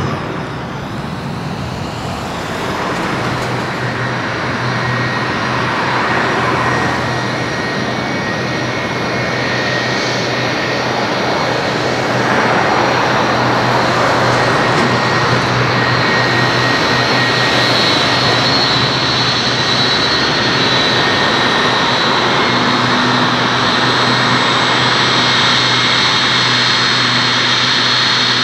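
Boeing 757-300 jet engines running steadily: a dense rush with a high whine and a low hum, growing louder in steps a few seconds in and again about twelve seconds in.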